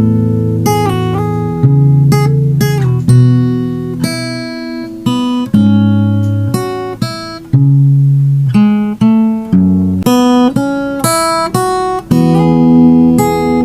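Acoustic guitar music: plucked notes and chords that ring and fade, changing about every second.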